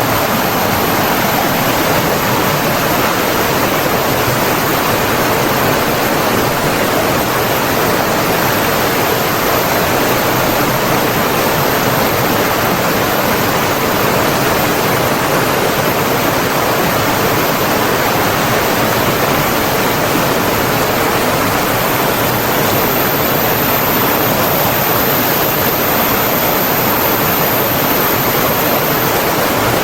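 Flowing water rushing steadily, an even, unbroken wash of noise.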